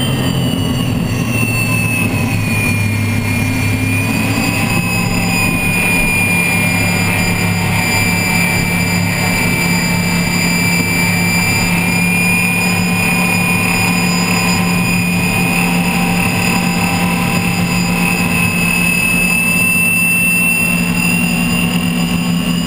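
Unlimited hydroplane's turbine engine running hard at racing speed, heard onboard: a loud, steady high whine that settles a little lower in the first few seconds and climbs slightly again near the end, over a steady low drone.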